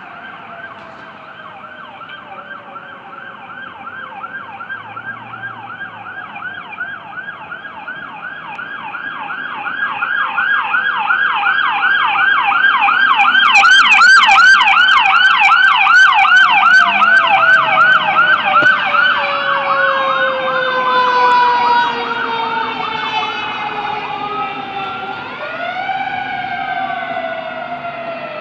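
Emergency vehicle sirens from an EMS unit and a fire engine responding: an electronic siren in a fast yelp, about three to four cycles a second, grows louder as the vehicles pass about halfway through, then fades. Under it a slower siren tone falls gradually in pitch, and near the end a siren sweeps up in a wail.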